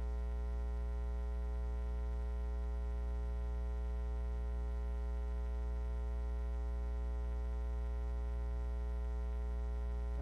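Steady electrical mains hum with a stack of buzzing overtones, unchanging throughout.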